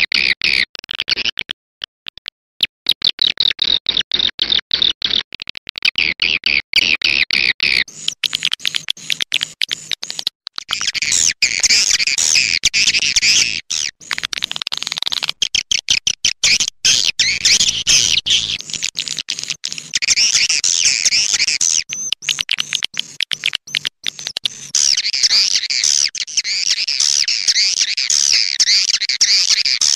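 Swiftlet lure-call recording: rapid, chattering twitters of swiftlets. For the first eight seconds it is a fast train of clicky chirps. After that it becomes a denser, higher chorus of many overlapping twitters.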